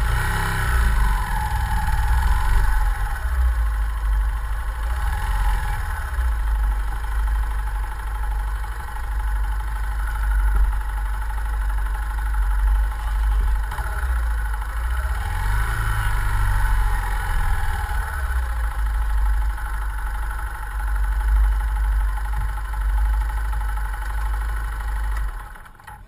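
Yamaha Fazer 150 Blueflex motorcycle's single-cylinder engine running at idle on its stock exhaust, with a few brief rises and falls in pitch. The sound drops away right at the end.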